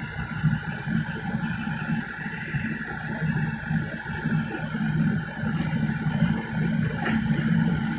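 Excavator's diesel engine running under load, a steady low drone that swells and dips.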